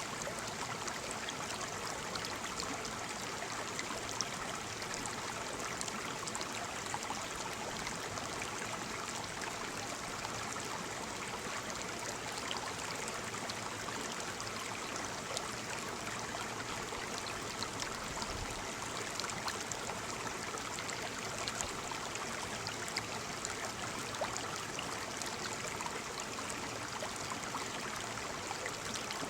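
Waterfall: a steady rush of falling water splashing, with small splashes ticking through it.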